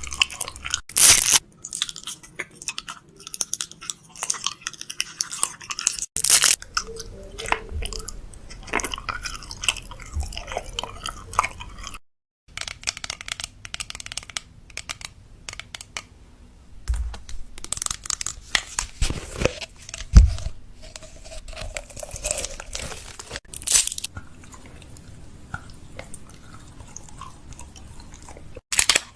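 Snack restocking sounds: crinkling plastic snack wrappers and packets, with sharp clicks and knocks of items and containers being set down. A short break of silence comes a little before the middle.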